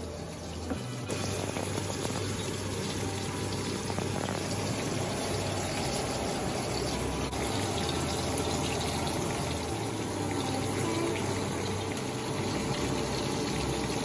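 Salmon fillet and diced potatoes sizzling in oil in a pan, a steady frying hiss that gets louder about a second in. Background music plays underneath.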